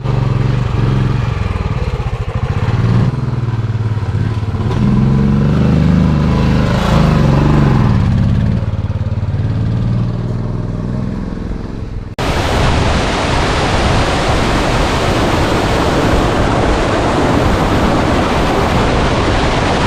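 A motorcycle engine running, its pitch rising and falling as it is revved. About twelve seconds in it cuts abruptly to the steady, loud rush of a waterfall.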